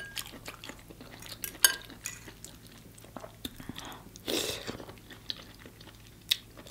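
Close-miked eating sounds: wet chewing of cooked cabbage, with a few sharp clicks of a metal fork against a plate. About four seconds in comes a longer, louder mouth noise as a forkful goes in.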